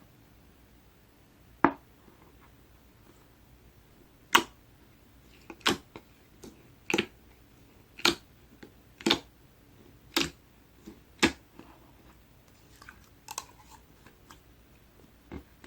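Clear slime being squished and pressed, making sharp wet pops and clicks about once a second, with softer ones near the end.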